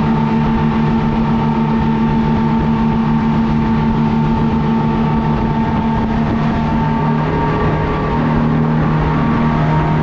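Engine running steadily at a constant speed, a steady hum with a thin whine above it.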